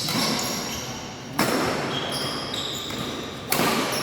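Badminton rackets striking a shuttlecock in a rally, three sharp hits about two seconds apart, each echoing in the hall, with shoes squeaking on the court between them.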